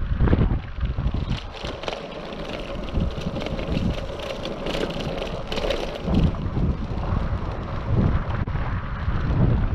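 Wind buffeting the microphone of a GoPro on a moving bicycle, a low rumble that eases after about a second and builds again near the end, with scattered short clicks and rattles from the ride in the middle.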